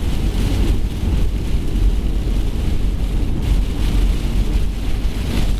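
Wind buffeting the microphone in a thunderstorm, a steady loud low rumble, with the hiss of rain and gusts swelling now and then.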